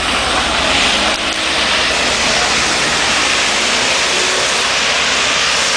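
Off-road vehicle engine running hard under load, half buried under a loud, steady rushing noise.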